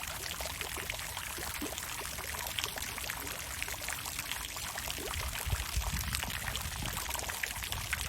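Water fountain pouring and splashing steadily, a dense patter of falling water. A low rumble swells briefly about five seconds in.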